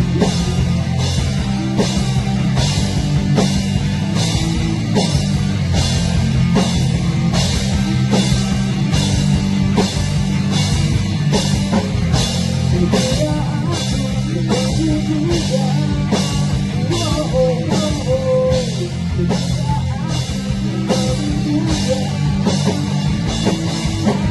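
Rock band playing an instrumental passage: drum kit with steady cymbal strikes on the beat over sustained bass and guitar chords, with a lead guitar melody of bending notes through the second half.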